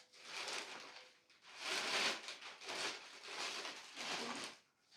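Parcel packaging being handled and torn open: about five separate bouts of rustling and crinkling, each under a second long.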